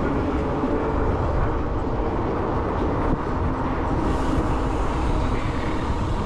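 Steady rumble of wind and road noise from an electric bike riding at speed, with wind buffeting the microphone.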